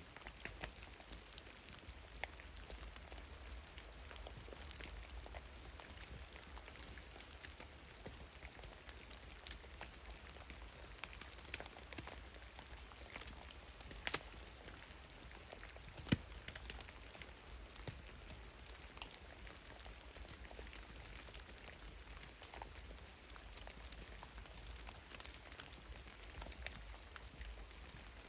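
Water drops from heavy melting snow falling and landing in irregular, scattered light ticks and pats. Two drops stand out louder about halfway through.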